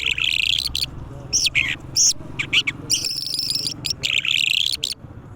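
Songbird singing: a fast run of sharp chirps and buzzy trilled phrases, with a short pause near the end.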